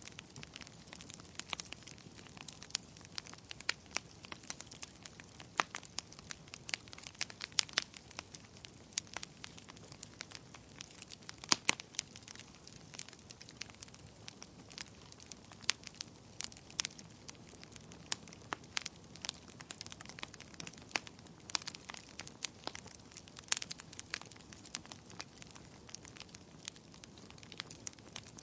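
Wood fire crackling in a fireplace: burning logs giving irregular sharp pops and snaps over a soft steady hiss.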